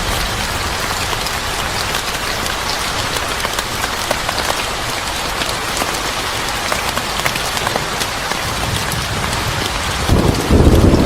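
Steady heavy rain, a dense even patter with scattered sharp drip ticks. About ten seconds in a deep low rumble sets in beneath it.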